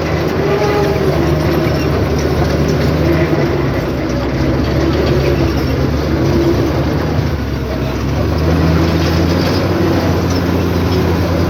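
Heavy-equipment diesel engine running steadily with a deep drone that eases off about four seconds in and comes back strong about eight seconds in.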